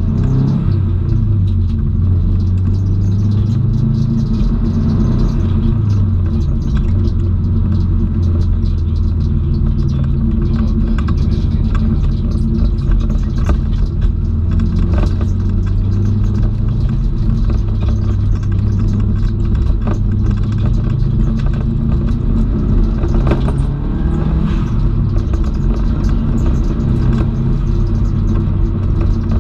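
Subaru Impreza WRX STI's turbocharged flat-four engine heard from inside the cabin under hard driving, its note climbing and dropping several times as the car accelerates and shifts gear.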